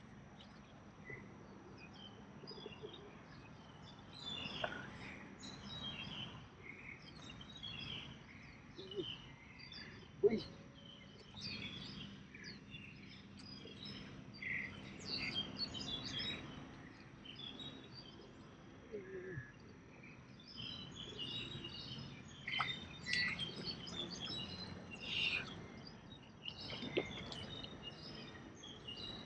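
Birds chirping and calling: many short, faint high chirps scattered throughout, with a few soft knocks, the loudest about ten seconds in.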